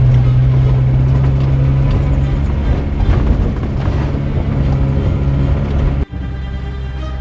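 Engine and road noise of a BMC Levend XL midibus camper on the move, a strong low drone with rumble over it. It cuts off abruptly about six seconds in, giving way to a quieter, steadier sound.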